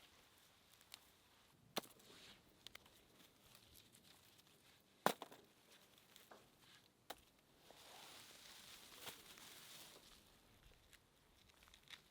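Faint handling sounds: a few scattered sharp clicks and knocks, the loudest about five seconds in, and a stretch of rustling in the second half.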